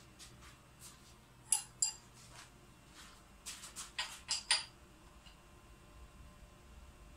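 Metal tools or parts clinking together as they are handled: two sharp clinks, then a quick run of about six more some two seconds later, over a faint low hum.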